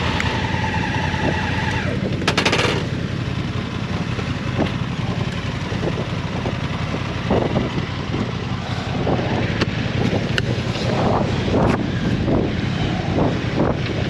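Motorcycle riding, its engine rumbling under wind hitting the microphone, with a loud gust a couple of seconds in and many short sharp buffets in the second half.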